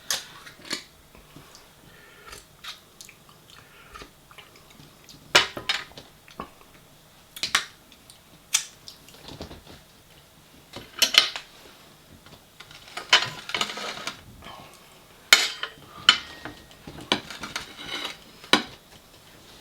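Cutlery clinking and scraping against dishes during a meal: irregular sharp clinks every second or two, with a few short scraping stretches.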